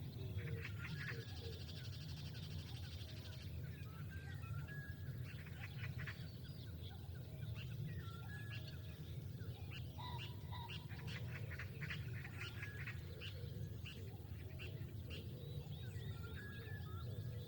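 Several wild birds calling and chirping in short, scattered notes, with a high buzzing trill from about one to three and a half seconds in, over a steady low rumble.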